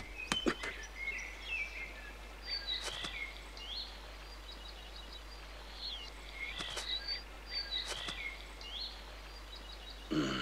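Forest ambience of birds chirping quietly: short high chirps recurring in a repeating pattern.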